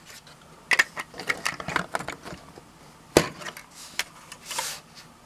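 Hard plastic LEGO parts clicking and rattling as a LEGO helicopter model is handled. There is a quick run of small clicks, then one sharper click about three seconds in.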